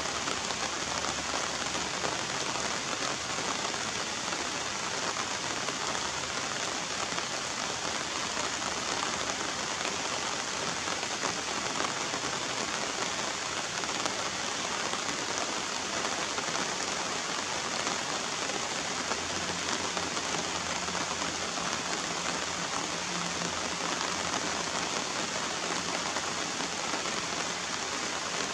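Steady rain falling on puddles and wet surfaces, an even, unbroken hiss.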